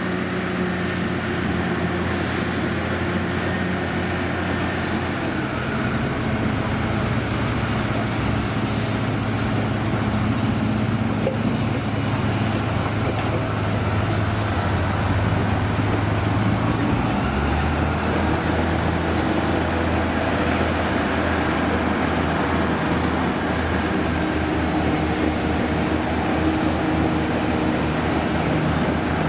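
Heavy diesel vehicle engines running steadily, with a low engine note that changes pitch about two-thirds of the way through.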